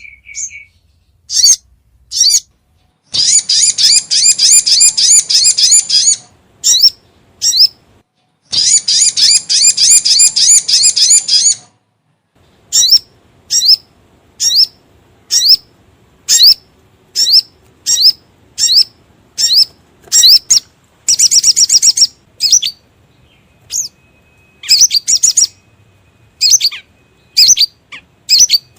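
Sogon (spiderhunter) calls played as a bird lure: a run of loud, sharp, high chips about one a second, broken by rapid chattering trills lasting one to three seconds.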